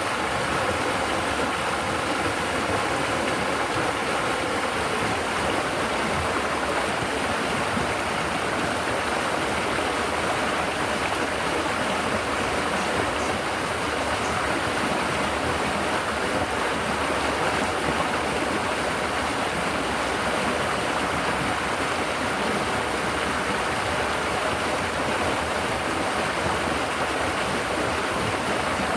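River water babbling steadily as it flows over rocks and along the bank.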